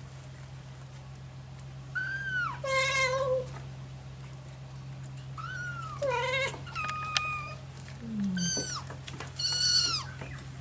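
Kitten meowing repeatedly: about five high-pitched cries, each bending down in pitch at its end.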